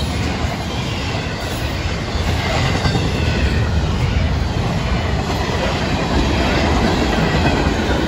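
Florida East Coast Railway freight cars rolling past close by: a steady, loud noise of steel wheels running on the rails.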